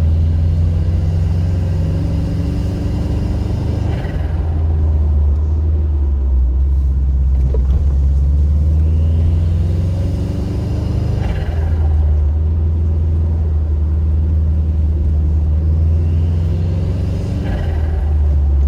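Subaru Impreza WRX's turbocharged flat-four engine running with a deep, steady rumble. Three times the revs climb and then drop with a short, sharp burst of noise as the throttle closes: turbo flutter, the compressor surging.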